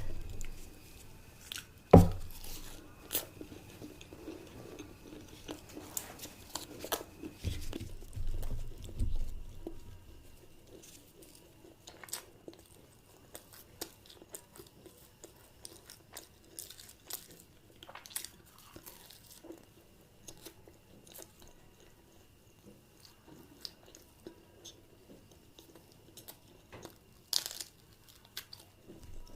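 Close-miked eating: a person biting and chewing puri with chole, with scattered soft crunches and wet mouth clicks. There is one sharp knock about two seconds in, and the chewing gets quieter after about ten seconds.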